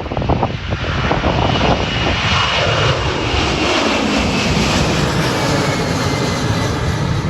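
Jet airliner passing close by, its engine noise building and its whine falling in pitch as it goes past, with wind buffeting the microphone at first.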